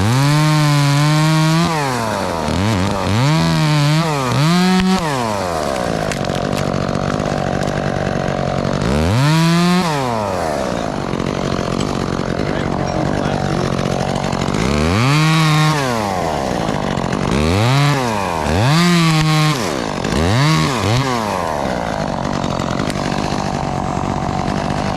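Chainsaw revving up in repeated bursts, each rising in pitch and falling back, about eight times, running more steadily at lower speed in between.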